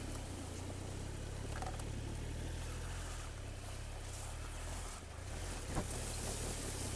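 Triumph Tiger 1200's three-cylinder engine running steadily at low speed as the motorcycle wades through a river ford, with water splashing and rushing around the wheels.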